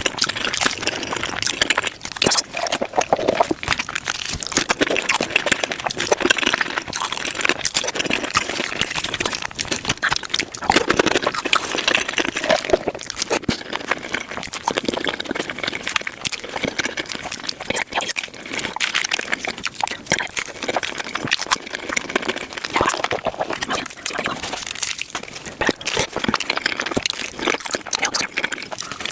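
Close-miked eating of tacos, crunching and wet chewing, sped up about five times so the bites and mouth sounds run together into a rapid, unbroken crackle.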